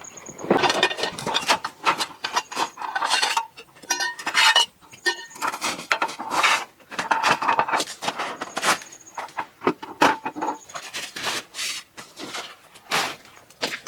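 Camp gear being handled: a busy run of irregular rubbing, scraping and knocking strokes, with a few short squeaks a few seconds in.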